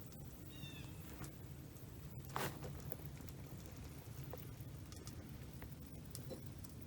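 Quiet outdoor campfire ambience: a low steady rumble with scattered faint ticks and pops from the coal bed, one sharper pop about two and a half seconds in. A short high falling chirp sounds near the start.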